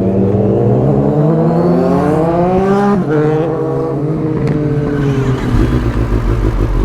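Kawasaki ZX-10R's inline-four engine accelerating, its pitch rising for about three seconds, then dropping at an upshift and pulling on steadier before easing off about five seconds in.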